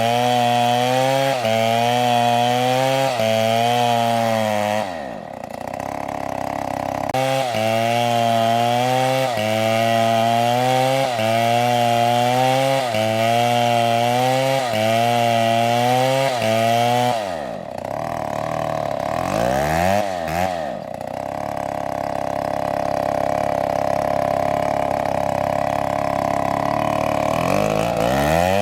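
STIHL two-stroke chainsaw cutting into a palm trunk, its engine pitch dipping and recovering about once a second as the chain bites under load. Twice, about five and about seventeen seconds in, the throttle is let off and the engine winds down before revving back up, running steadier near the end.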